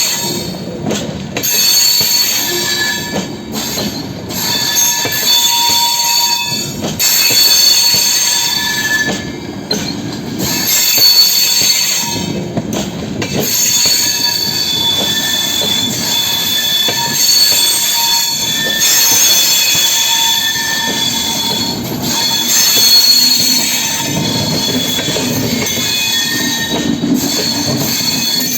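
Passenger train of LHB coaches running along the track: a steady rumble with high-pitched wheel squeals that come and go many times.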